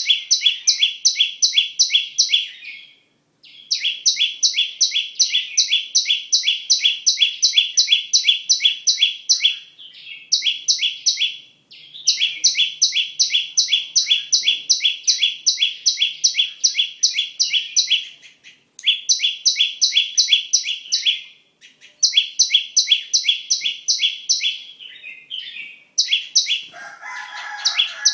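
Flowerpecker song: runs of rapid, evenly repeated high chirps, about four a second, each run lasting several seconds before a short break. A brief lower-pitched call joins in near the end.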